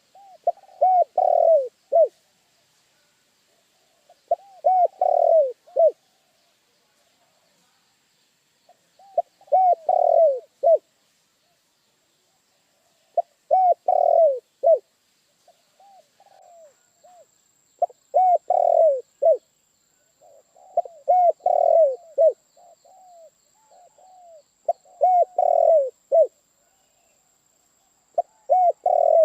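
Spotted dove (tekukur) cooing: a phrase of several curved coo notes, repeated about every four seconds, eight times, with fainter coos between some phrases.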